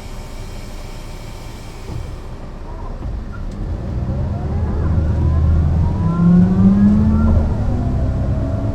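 Mercedes-Benz O 405 NÜ low-floor bus pulling away and accelerating. From about three seconds in the engine and drivetrain grow louder, with several whining tones climbing in pitch.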